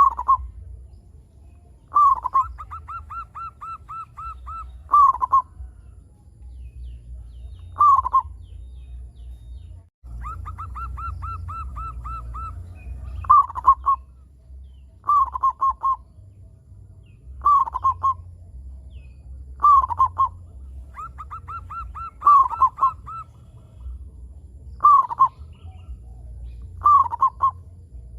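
Zebra dove (perkutut) cooing: short coos that fall in pitch repeat every two seconds or so, and three times the bird breaks into a rapid stuttering run of about ten quick notes before the coo. A low steady hum runs underneath.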